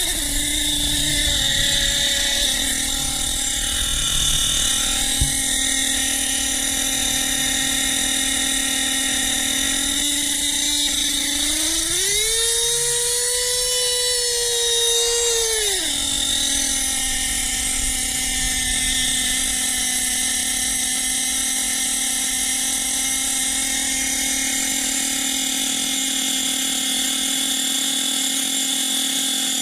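Nitro engine of a Team Associated RC8B4.1 1/8-scale buggy running at a steady pitch, revving up about twelve seconds in, holding the higher pitch for about four seconds, then dropping back to its earlier speed.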